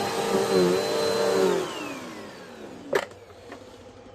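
Bissell Powerforce Helix Turbo upright vacuum running with a steady motor whine that dips briefly under load, then switched off about a second and a half in, its motor winding down in pitch. A single sharp click follows about three seconds in.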